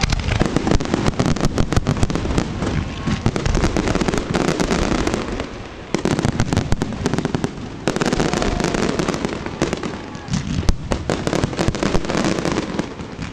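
Fireworks display: a dense, continuous barrage of bangs and crackles from bursting shells, with two brief lulls about six and eight seconds in.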